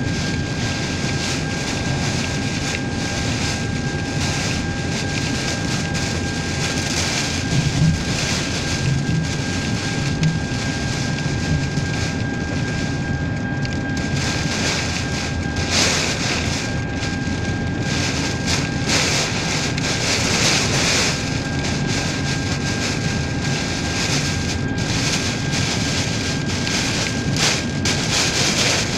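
Strong typhoon wind blowing hard and steadily, swelling in gusts and buffeting the microphone. A faint steady high whine runs underneath.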